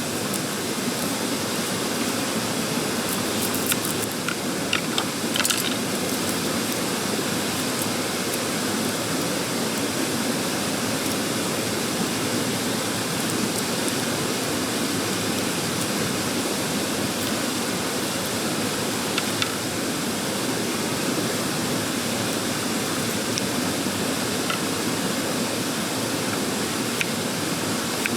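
Mountain stream rushing in a steady wash of water noise, with a few small clicks over it, mostly around the fourth and fifth seconds.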